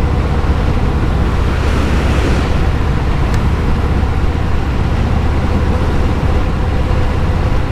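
Motorcycle running steadily at speed: a constant low engine drone under wind and road rush, with a faint steady whine above it.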